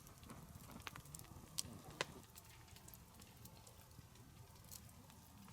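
Faint campfire crackling: a soft hiss with scattered small ticks and two sharper pops about one and a half and two seconds in.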